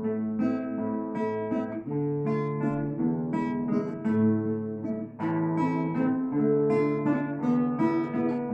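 A plucked-string instrumental duet playing a classical piece, with a continuous flow of notes and some sustained tones beneath.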